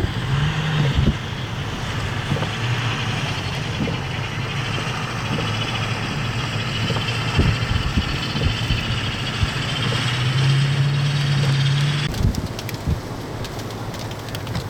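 A motor vehicle's engine runs with a steady low hum over road and tyre noise. The sound changes abruptly about twelve seconds in, and a few short knocks occur.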